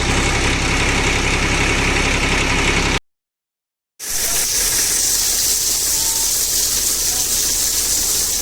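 Massey Ferguson tractor's diesel engine running steadily. About three seconds in it cuts off into a second of silence, and a steady hiss follows.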